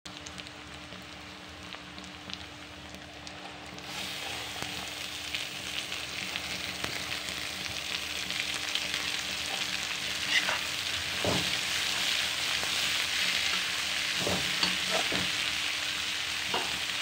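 Vegetables frying in oil in a metal kadhai: a steady sizzle that gets louder about four seconds in, once shredded cabbage, broccoli and carrot are in the pan with the onion. A metal spatula stirring the pan knocks and scrapes against it several times in the second half.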